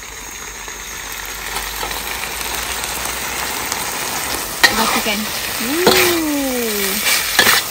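Shredded mackerel tuna sizzling as it goes into hot chilli sambal in a steel wok. The sizzle builds gradually, and in the second half a spatula knocks and scrapes against the wok a few times as it is stirred in.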